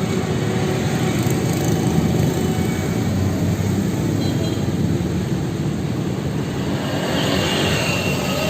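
Honda ADV 150's single-cylinder scooter engine running steadily through a Pro Speed aftermarket exhaust, a dense low rumble with no revving.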